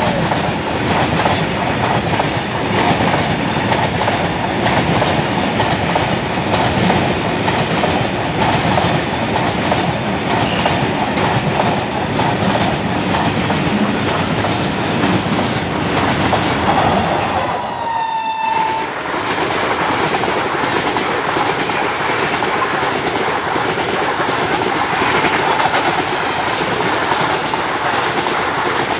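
Trains passing at speed close by: a steady rush and clatter of wagon wheels over the rails. About two-thirds of the way through comes a short train horn blast.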